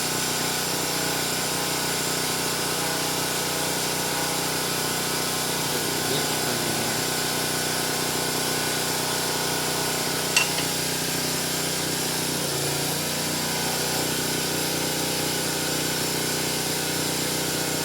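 Steady mechanical hum of a running machine, holding many fixed tones at an even level, with one sharp click about ten seconds in.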